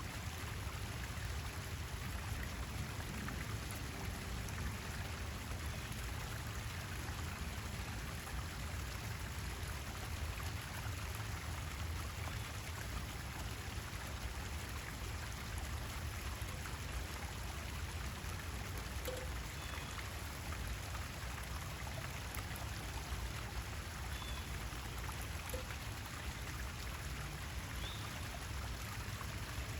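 Steady running, trickling water, with a bird's faint short chirps a few times in the second half.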